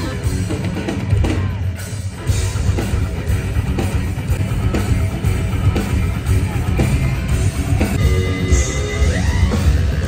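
Rock band playing full out at a sound check: drum kit and guitar over a heavy low end. A lead line rises in pitch near the end.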